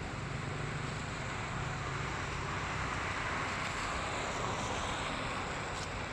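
Steady rushing of rain and floodwater, swelling a little through the middle.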